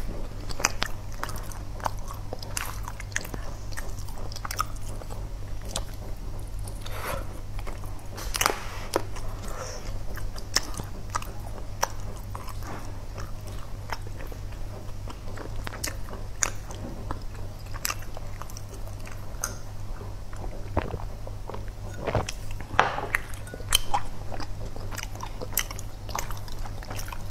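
Close-miked biting and chewing of tough, chewy dried baked sweet potato strips, with many short mouth clicks and crackles scattered throughout. A steady low hum sits underneath.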